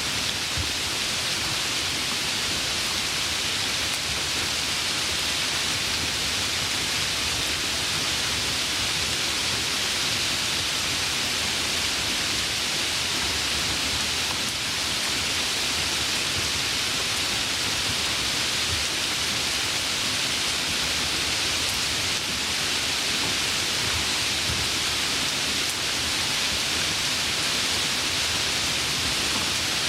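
Steady rain falling, an even hiss that stays constant throughout with no single drops or thunder standing out.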